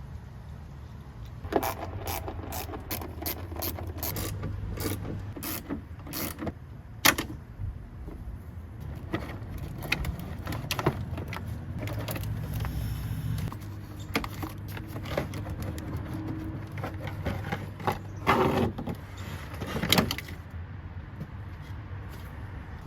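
Hand tools clicking and knocking against metal as car cooling-system parts are unfastened. There is a run of regular clicks, about two a second, for the first several seconds, then scattered knocks, over a steady low hum.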